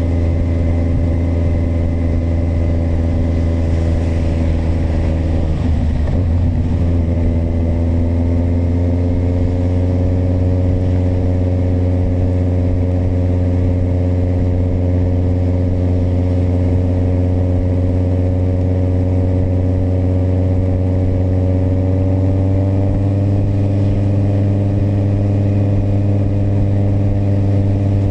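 Kawasaki motorcycle engine running under way. The revs dip briefly about six seconds in, then climb slowly, with a further small rise near the end.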